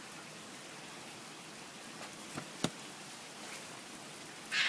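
Steady rain hiss. A single sharp click comes about two and a half seconds in, and a brief high-pitched sound near the end.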